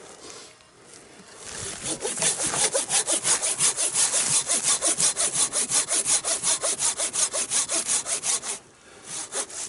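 Handsaw cutting through a dry standing tree trunk with quick, even strokes. The strokes start about a second and a half in, stop briefly near the end, then start again.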